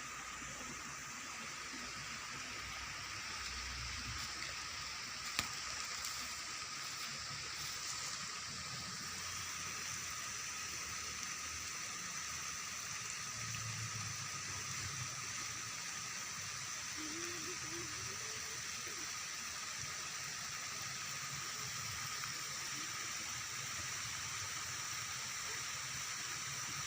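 Steady rush of water outdoors, even throughout, with a continuous high-pitched drone over it. There is a single sharp click about five seconds in.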